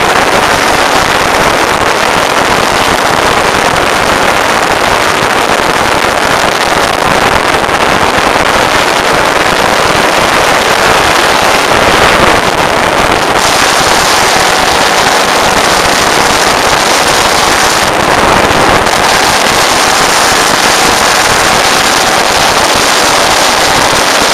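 Model aircraft engine and propeller run up to full throttle on a static thrust test, a loud steady rattle of rapid firing pulses pulling more than 20 kilograms of thrust. It opens up at the start and throttles back at the end.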